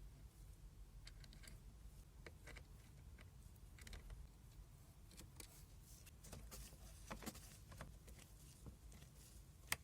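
Near silence: a faint low hum with scattered small clicks and taps.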